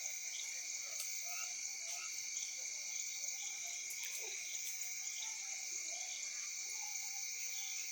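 A night chorus of frogs and insects calling steadily, with two continuous high trills.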